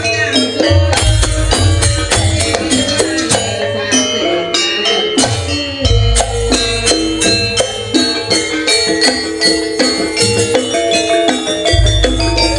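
Banyuwangi traditional ensemble music played live: fast, dense percussion under pitched melodic notes, with deep booming low notes about every five to six seconds.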